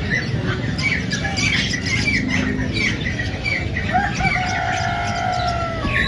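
Caged birds calling over a steady low rumble: a run of short, quick chirps, then one long held call starting about four seconds in.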